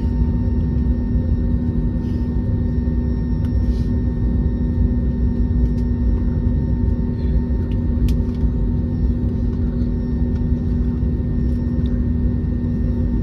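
Steady cabin noise of an Airbus A321neo on the ground: a low rumble with a constant drone over it.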